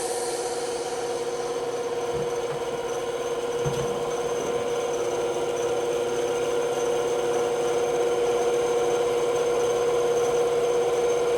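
Shop vacuum motor running steadily with a constant whine, picking up sawdust from around a bandsaw, with a couple of faint knocks early on.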